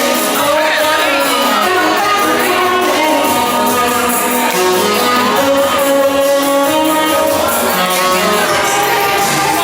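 Live jazz band playing, a bending lead melody line over the band.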